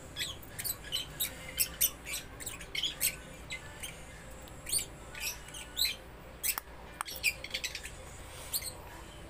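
Small birds chirping in quick, irregular calls, with two sharp clicks about half a second apart roughly two-thirds of the way through.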